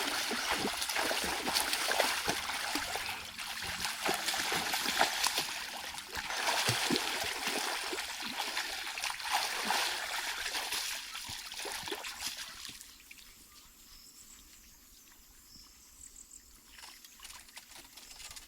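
Water splashing and trickling, dense with small splatters, fading away about two-thirds of the way through and leaving a quiet stretch with a few faint high chirps.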